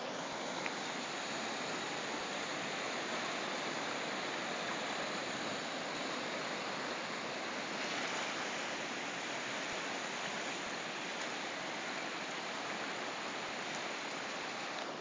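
Steady rushing of floodwater, an even unbroken wash of noise.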